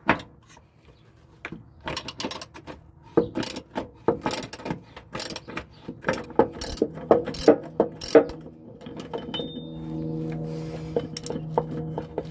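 Ratchet spanner clicking in quick, uneven runs as bolts holding a seat bench to the van floor are undone. A steady low hum comes in near the end.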